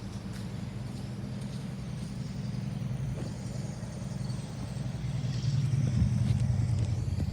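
Ceiling fan motor humming steadily, growing louder about five seconds in.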